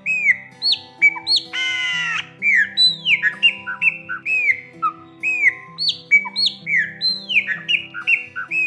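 Chopi blackbird (graúna) singing: a rapid run of loud, clear whistled notes, many arching and falling in pitch, with one harsh rasping note about a second and a half in. Soft acoustic guitar music plays underneath.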